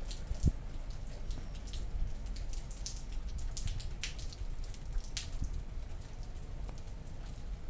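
Rain falling during a thunderstorm, with scattered individual drops tapping close by over a steady low rumble. A single sharp knock about half a second in.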